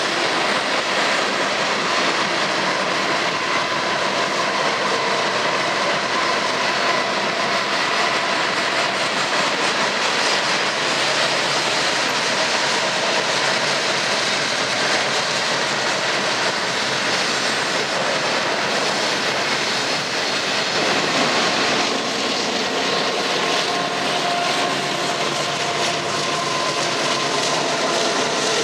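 Freight cars rolling past on the rails, a loud, steady rumble of wheels and car bodies. From about twenty seconds in, a Union Pacific diesel locomotive's engine adds a steady whine over the rolling noise as it passes.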